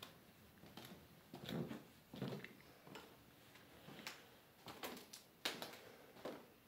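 Footsteps walking at an even pace, about eight soft steps with light clicks.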